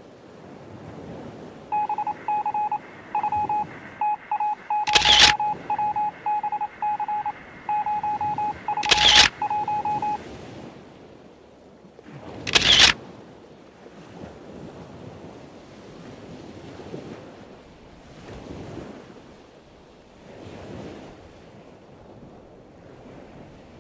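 A single-pitched electronic beep keys on and off in irregular short and long pulses for about eight seconds, like telegraph Morse code. Three sharp camera-shutter clicks fall about 5, 9 and 13 seconds in. Beneath it all is a soft wash of surf and wind that swells and fades.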